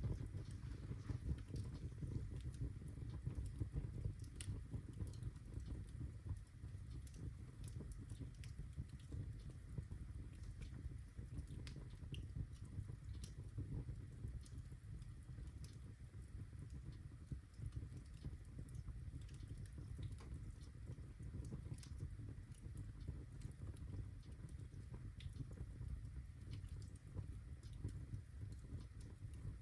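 Birchwood fire burning in a fireplace: scattered sharp crackles and pops over a steady low rumble of the flames.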